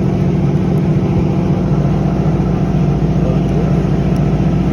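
A motor-driven machine running steadily with a loud, even drone that does not change.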